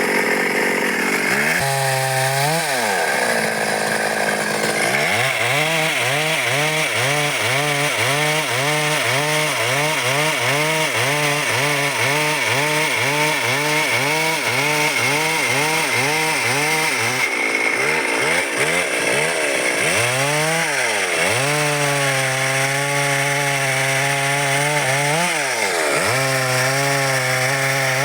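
Stihl MS 382 two-stroke chainsaw cutting dry wood. The engine pitch dips and recovers about twice a second through the middle, then holds steadier with a single dip near the end.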